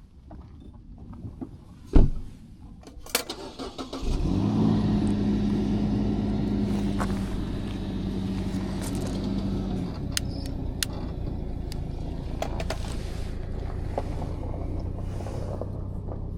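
A sharp thump and a few clicks, then a car engine starts about four seconds in and idles steadily, its idle settling a little lower after about six seconds.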